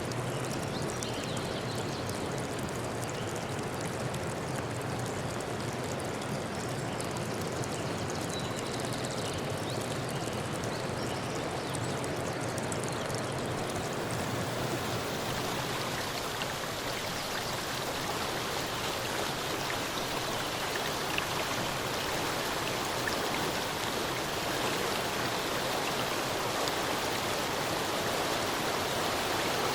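Steady rush of running water, filling out with more hiss about halfway through and growing slightly louder near the end.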